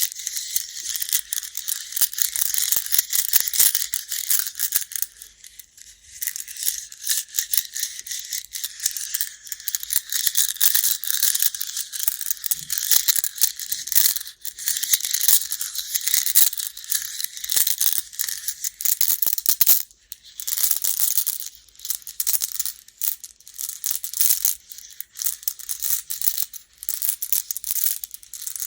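Baduk (Go) stones clattering against one another in a continuous, rapid rattle of small clicks, dipping briefly twice.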